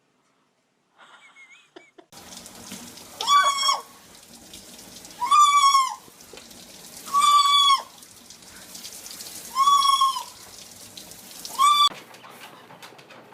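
A bird calling five times, roughly every two seconds, each call a short pitched note that rises, holds and drops at the end, over a steady background hiss.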